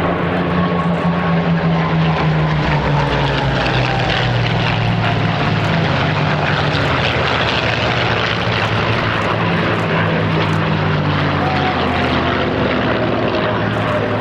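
Propeller aircraft flying past in an air display, its engine drone steady and loud with the pitch slowly dropping as it passes.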